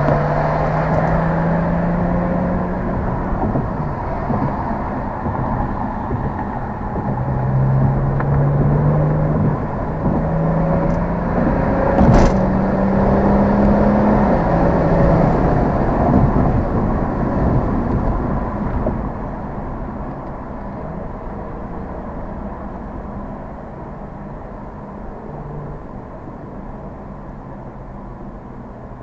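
Car engine and road noise while driving in traffic, the engine note holding steady and then stepping up and down in pitch as the revs change, with a single sharp click about twelve seconds in. The engine quietens after about nineteen seconds as the car eases off.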